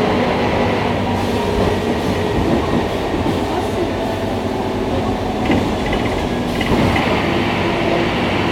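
Scania K310IA articulated bus running in service: steady engine hum and rolling noise with body rattles. A short run of faint high beeps sounds about five and a half seconds in.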